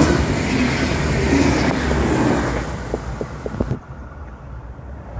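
V/Line VLocity diesel railcar train passing close by at high speed: a loud rush of wheel and wind noise that fades as the train recedes, with a few sharp clicks, then drops away suddenly about four seconds in.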